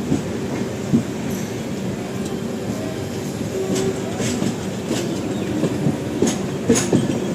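Express passenger train running along the track: a steady rumble with scattered clicks and knocks of the wheels over the rails.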